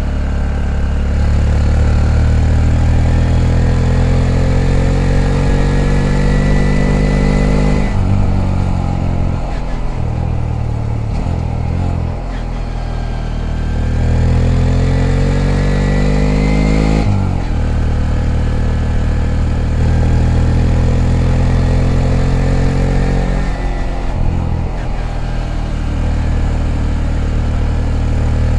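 Honda Grom's 125 cc single-cylinder four-stroke engine under way. The revs climb steadily, drop sharply about eight seconds in, climb again, and drop sharply once more about seventeen seconds in, then hold fairly steady.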